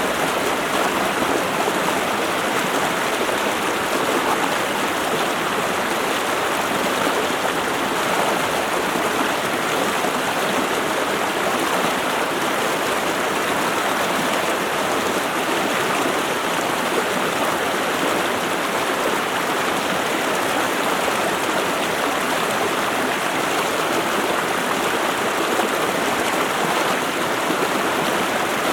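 Running water in a steady, unbroken rush.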